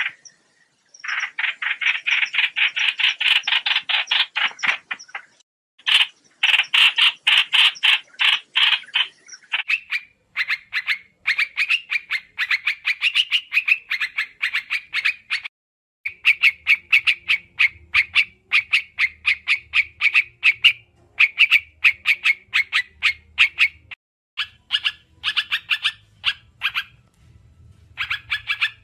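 Rapid chattering call of the trao trảo bird: strings of sharp notes at about ten a second, in bouts of a few seconds with short breaks between them. It is a lure call played to draw birds in for trapping.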